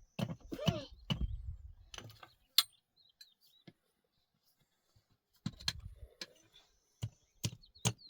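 Scattered knocks and clicks with low rumbling handling noise, a short pitched sound about half a second in, and a quiet pause in the middle.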